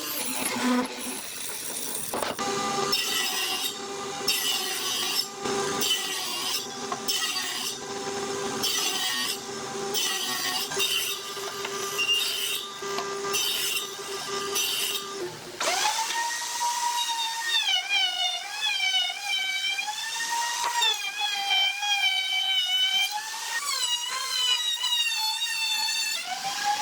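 Woodworking tool noise: a run of regular rasping strokes, then about halfway a power tool's motor comes in with a whine whose pitch wavers up and down as it cuts.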